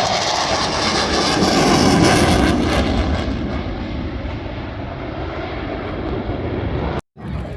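Engine noise of a fixed-wing aircraft flying past, loud and rushing, loudest about two seconds in and then easing off. It breaks off suddenly for a moment near the end.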